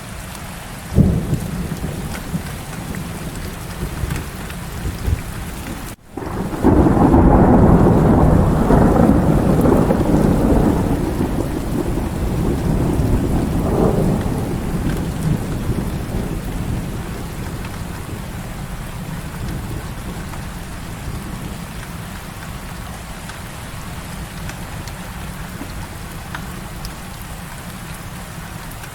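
Heavy rain falling steadily, with a sharp crack about a second in. A long roll of thunder starts suddenly around six seconds, stays loud for several seconds, then fades back under the rain.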